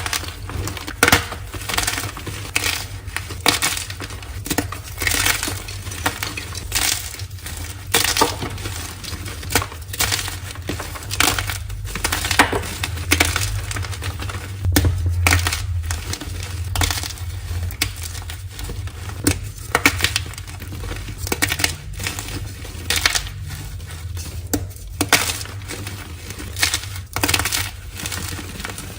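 Dyed gym chalk being crushed: a run of crisp, irregular crunches, about one or two a second, over a steady low hum.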